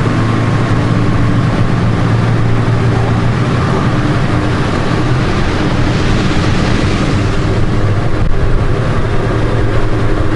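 Honda Gold Wing motorcycle riding steadily at motorway speed through a road tunnel: an even engine hum under road noise.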